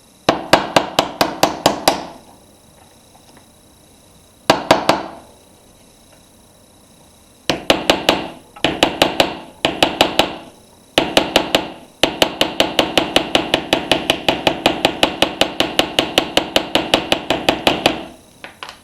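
Small hammer tapping rapidly on a rounded expansion-gap tool, pressing a thin litho strip's square edge into a curve. The taps come in quick runs of about six a second, each with a short metallic ring, in four bursts with pauses between, the longest lasting about six seconds.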